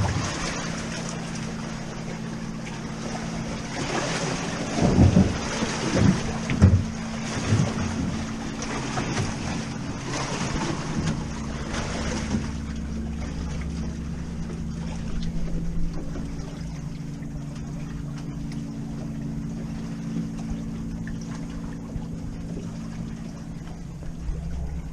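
A motorboat engine hums steadily on the river, with wind buffeting the microphone in irregular gusts during the first half.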